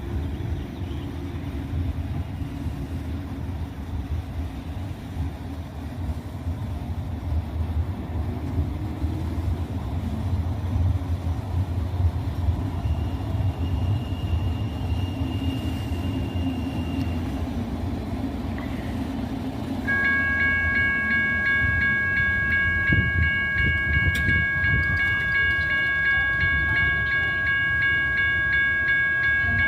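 A light rail train running with a steady low rumble. About two-thirds of the way through, a loud, steady, high-pitched ringing tone with several overtones starts and holds to the end.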